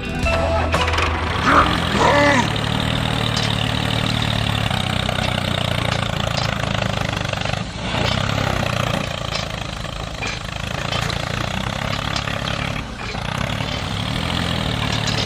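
Tractor engine idling with a steady low hum. About two seconds in there is a short high gliding sound.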